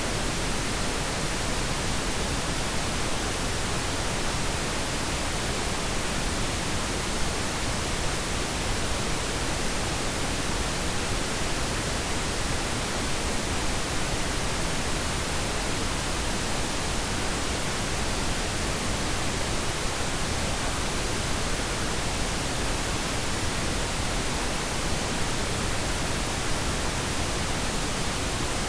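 Steady synthetic pink noise: an even, unchanging hiss spread across the whole range, with no events or changes.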